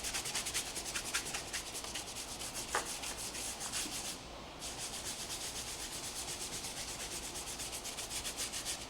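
Rapid back-and-forth scrubbing by hand on the car during a wash, about five strokes a second, pausing briefly about four seconds in.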